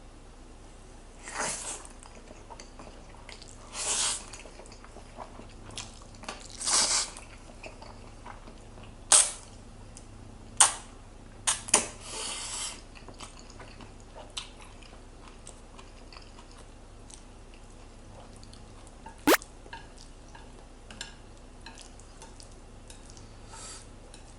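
A person eating jjapagetti black bean noodles with Spam and kimchi: chewing and biting sounds in short bursts a few seconds apart, with a few sharp clicks among them, the loudest a single click about two-thirds of the way through.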